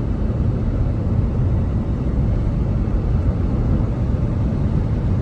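Steady low rumble of a car driving along a highway: engine and tyre noise at a constant pace.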